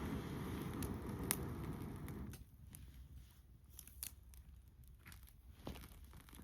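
Wood campfire crackling, with scattered sharp pops over a low rushing noise that fades after about two seconds.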